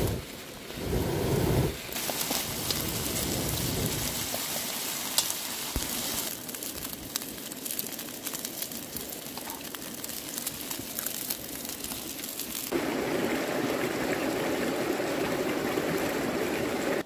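Food sizzling over a campfire, a steady hiss full of fine crackles, in several stretches that cut abruptly from one to the next.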